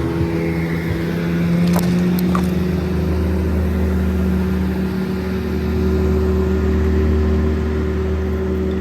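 An engine running steadily with a low hum, and a few sharp clicks about two seconds in.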